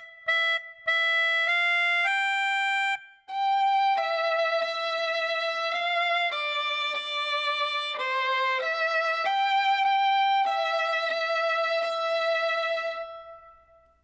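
Solo violin. It opens with four short repeated notes on one pitch and then a rising run. After a brief break comes a melody of held notes with vibrato, which stops about a second before the end.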